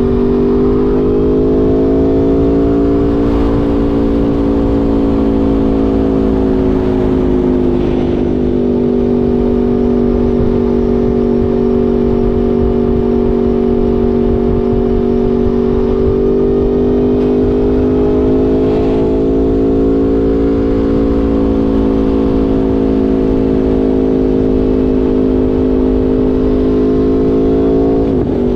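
Aprilia Tuono V4 motorcycle's V4 engine running under way at a fairly steady speed. Its pitch drifts slowly up and down and drops sharply near the end, with steady wind rumble on the microphone underneath.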